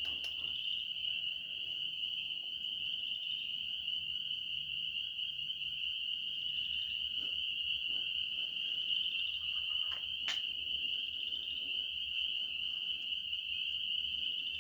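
Night chorus of calling creatures, one continuous high-pitched trill that holds steady throughout. A single sharp click comes about ten seconds in.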